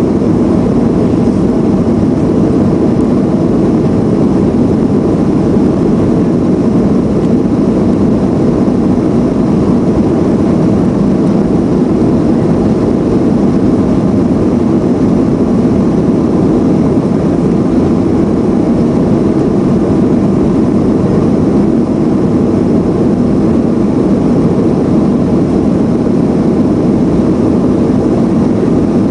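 Boeing 737-400's CFM56 jet engines running at a steady, unchanging roar, deep and constant throughout.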